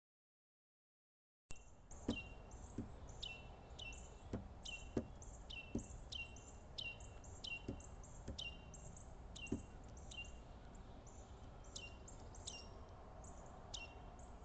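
Small bird repeating short down-slurred chip calls, about one or two a second, over a steady outdoor hiss, with a few sharp taps of birds pecking at a wire suet cage on the feeder. Silent for the first second and a half.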